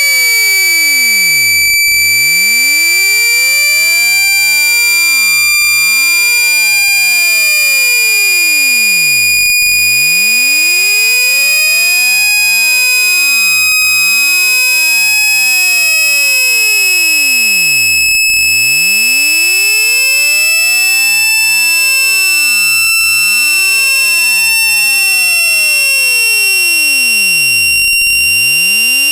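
Generated speaker-cleaning tone for pushing water out of a phone speaker: a loud, steady, high-pitched electronic tone that slowly rises in pitch, with fainter tones sweeping up and down beneath it.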